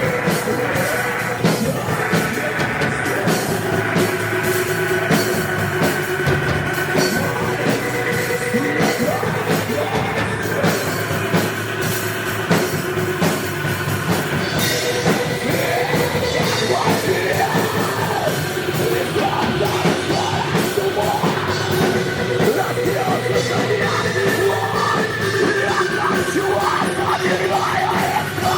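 Loud, dense noise rock played by a band: a drum kit under a thick, sustained wall of pitched sound that keeps going without a break.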